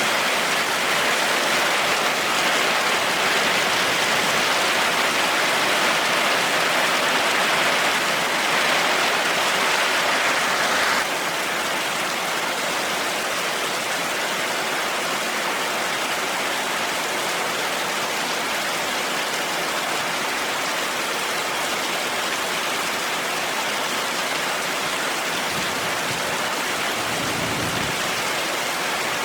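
Heavy rain falling, a dense, steady hiss of drops that drops slightly in level about eleven seconds in.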